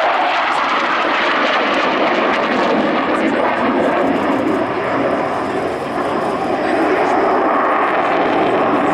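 Loud, steady jet noise from a MiG-29 fighter's twin Klimov RD-33 turbofans during a flying display, with a slight dip about six seconds in.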